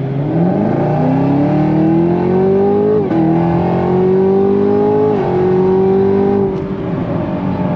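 Chevrolet Camaro ZL1's supercharged V8 accelerating hard, its pitch climbing with two upshifts, about three and five seconds in. It then holds steady and eases off slightly near the end.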